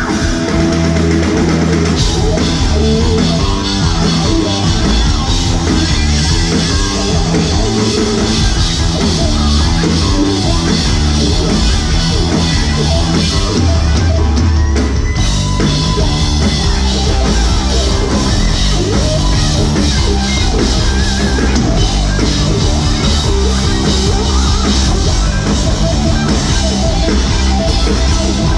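Live rock band playing an instrumental passage: distorted electric guitars over bass and a steady drum-kit beat, with no singing.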